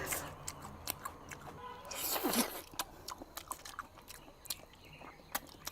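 Close-miked chewing and biting of gelatinous braised pork, with wet smacking and sticky clicks from the mouth, irregular throughout.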